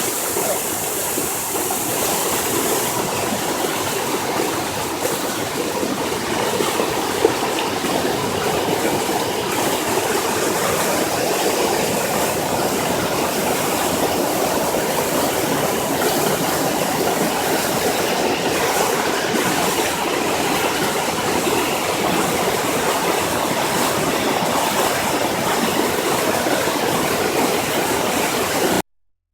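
Swollen flood river rushing steadily, a dense unbroken wash of water noise.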